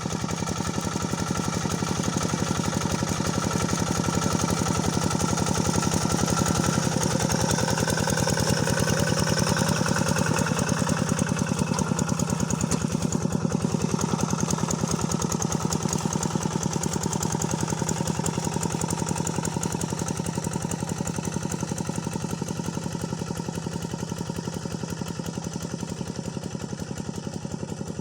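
Tractor engine running steadily, with a rapid, even firing beat.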